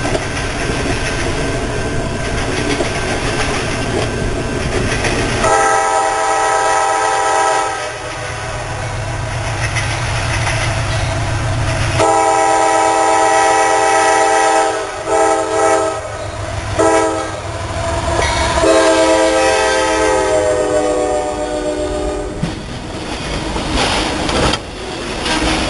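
Diesel locomotive's chord air horn sounding five blasts: long, long, short, short, long. Between them comes the steady rumble and clatter of a passing train's wheels on the rails.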